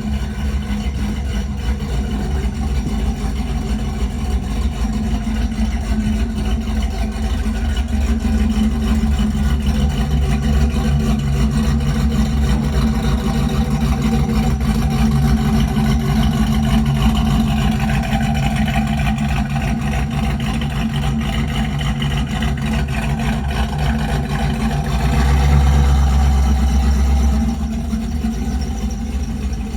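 Cammed pickup truck engine idling through an aftermarket Black Widow exhaust, a deep, steady rumble. It grows somewhat louder partway through and has a brief louder stretch about 25 seconds in.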